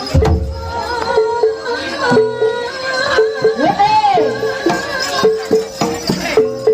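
Javanese gamelan music accompanying a reog horse dance: short metallophone notes repeated over and over, with low drum strokes near the start and a melody line that rises and falls about halfway through.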